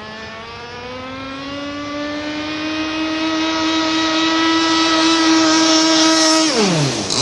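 RC racing catamaran's motor on a speed pass, its pitch climbing steadily as the boat accelerates and growing louder as it approaches, then dropping sharply in pitch near the end as it passes close by.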